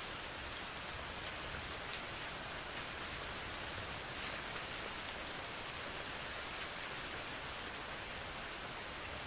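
Steady rain falling: an even hiss of rain on surfaces, with a few sharper single drops ticking through it.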